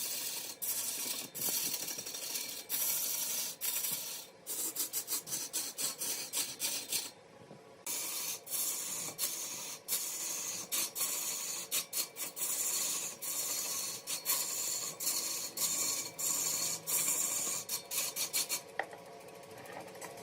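Wood spinning on a lathe being worked by a cutting tool or abrasive, giving a rough rasping scrape in short, uneven strokes over a faint steady hum. The scraping drops out briefly about seven seconds in and eases off near the end.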